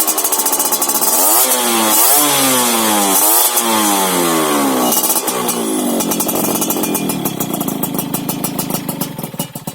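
Yamaha F1ZR two-stroke engine through a stainless BM Power expansion-chamber exhaust with an RCB-replica silencer, revved in four or five quick throttle blips that each rise sharply and fall back. It then settles to a lower, quieter idle with separate popping firing pulses near the end.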